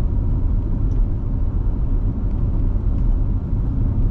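Steady low rumble of a car driving on the highway: engine and tyre road noise.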